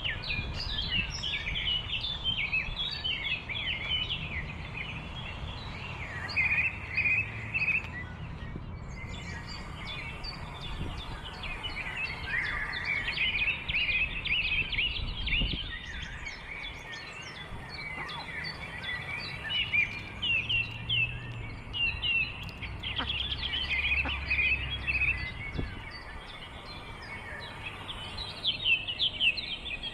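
Many small birds chirping and twittering in a dense, continuous chorus over a low rumble, with a couple of brief lulls.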